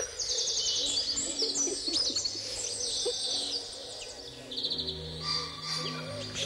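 Birds chirping, with many quick high trills repeating. Steady low tones, music coming in, join about five seconds in.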